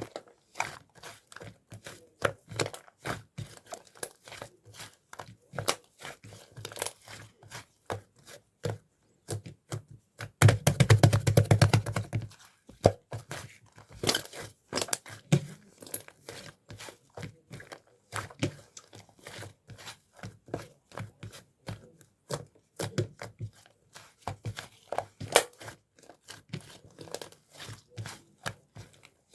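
Slime being squished, poked and stretched by hand, making a string of sticky clicks and pops. About ten seconds in, a loud rapid run of popping clicks lasts about two seconds.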